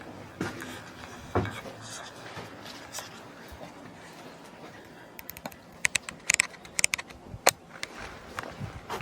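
Scattered sharp clicks and knocks, with a quick run of light, high clicks about five to seven and a half seconds in.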